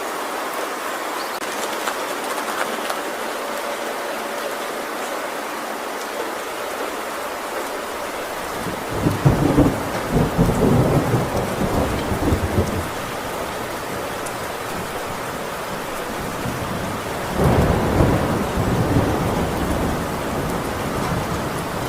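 Heavy rain drumming steadily on a tin roof, with two long rolls of thunder, the first a little under halfway through and the second near the end.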